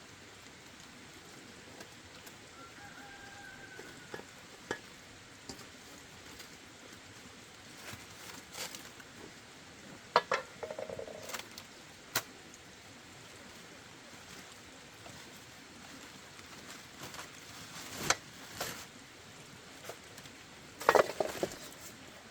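Scattered sharp knocks and clicks over a steady low hiss, with a short clatter about halfway through and another near the end.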